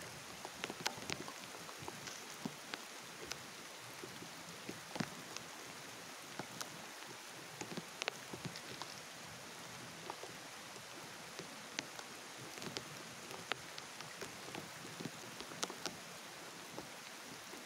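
Steady rain falling on a river's surface: an even hiss scattered with sharp ticks of single drops.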